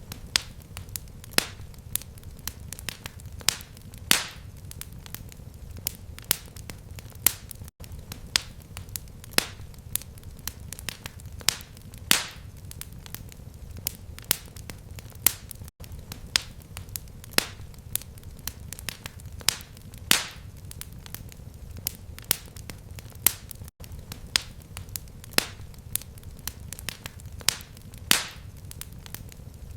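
Fireplace fire crackling: irregular sharp pops and snaps, a few louder ones, over a steady low rumble of flame. Brief near-silent gaps come about every eight seconds.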